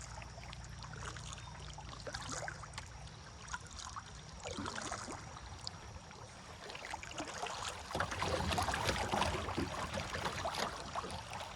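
River water rippling and splashing around a kayak as it runs a small shallow riffle, getting louder about eight seconds in.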